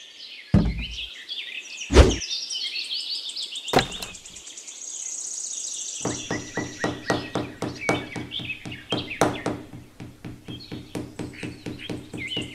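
Birds chirping, with three sharp knocks in the first four seconds, the loudest about two seconds in. From about halfway there is a fast, even tapping, about four or five a second, over a steady low hum.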